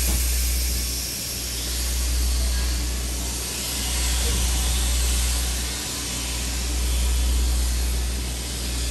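Steady rushing noise of a passenger train car in motion, with a heavy low rumble that swells and eases every couple of seconds, typical of wind buffeting a phone microphone.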